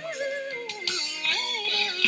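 Female singer's voice in a recorded ballad, holding melodic lines that slide between notes.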